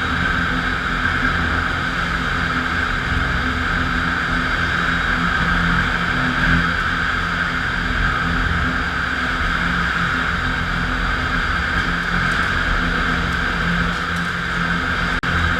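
FastPrep concrete floor grinder running steadily, its diamond grinding plates working the concrete: a constant motor hum under a grinding hiss, with a brief dip near the end.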